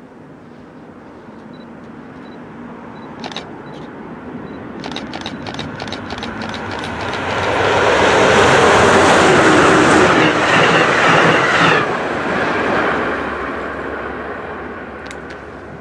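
MARC passenger train led by a Siemens SC-44 Charger diesel-electric locomotive passing by on the rails. Its rumble builds as it approaches, with a run of sharp clicks ahead of it, is loudest as the locomotive and cars go past, drops off sharply near the end of the train and then fades away.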